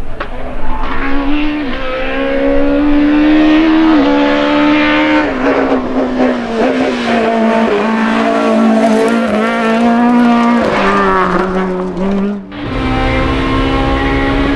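Toyota Corolla AE86 rally car's engine at high revs on a rally stage, its note climbing and dropping several times as it shifts and brakes into a corner. Near the end the sound switches to the same engine heard inside the cabin, a lower, steadier drone.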